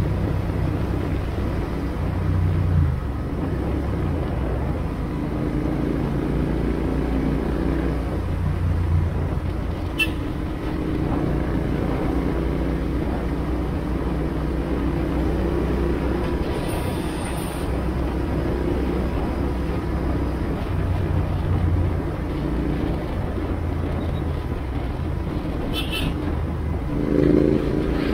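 Royal Enfield Interceptor 650's parallel-twin engine running steadily as the motorcycle is ridden along, with road and wind noise, its note swelling a few times.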